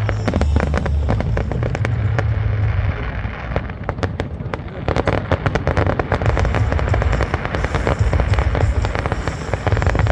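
Aerial fireworks bursting, with a dense run of rapid sharp crackles over a steady low rumble.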